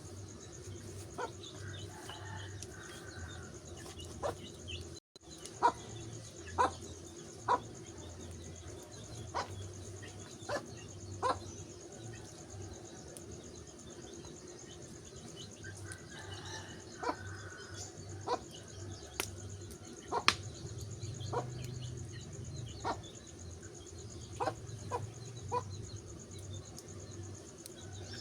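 Wood fire crackling, with sharp pops at irregular intervals, over a steady high insect drone.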